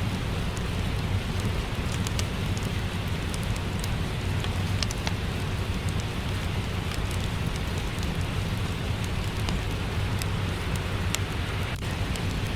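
Steady rain with a low rumble, mixed with scattered sharp pops and crackles from a fireplace.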